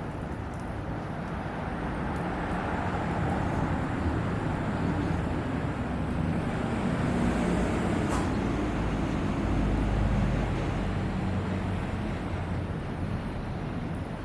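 A passing road vehicle: a low engine hum and road noise that grows louder to a peak about ten seconds in, then fades.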